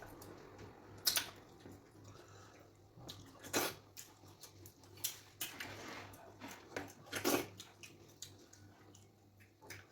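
Wet eating sounds: fufu and okra soup eaten by hand, with scattered squelches, lip smacks and chewing clicks at irregular moments, over a faint steady low hum.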